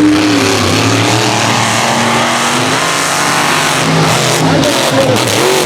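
Mega truck engines running at high revs as two trucks race through a mud course, their pitch rising and falling over a dense wash of noise.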